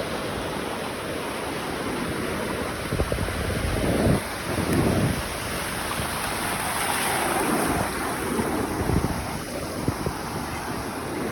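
Waves washing on a beach in a steady rush, with wind buffeting the microphone in gusts a few seconds in and again past the middle.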